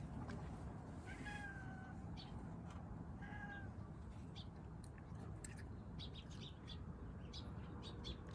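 A feral kitten meowing twice, two short calls about two seconds apart, each sliding slightly down in pitch. Small crunching clicks of kittens eating follow in the second half.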